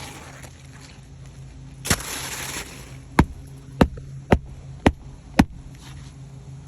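A brief scraping rush, then five sharp hammer blows about half a second apart, typical of a roofing nail being driven into an asphalt shingle.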